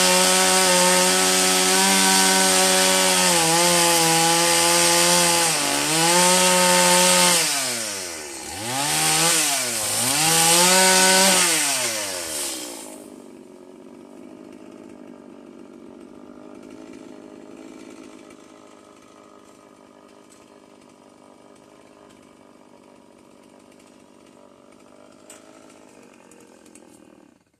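Stihl chainsaw running at full throttle, its revs sagging and recovering several times around the middle, then dropping to a much quieter idle about 13 seconds in. The idle cuts off abruptly near the end.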